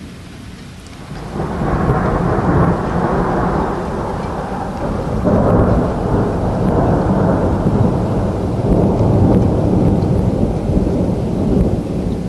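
Thunder from a lightning strike: a loud rumble starts about a second in and rolls on, swelling again around five seconds and near nine, over falling rain.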